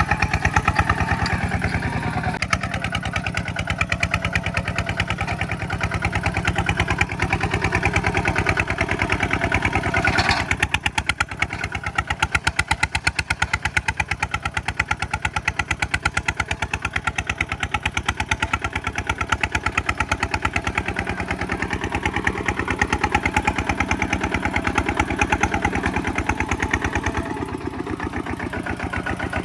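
Kubota single-cylinder diesel engine running with a rapid, even chugging. It briefly surges about a third of the way in, then runs on a little quieter.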